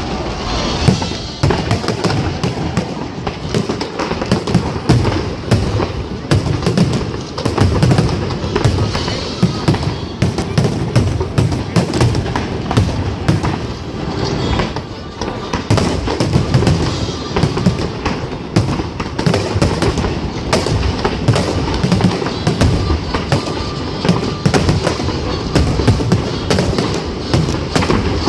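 Fireworks display going off in a rapid, unbroken string of booms and crackling bursts, with music playing along.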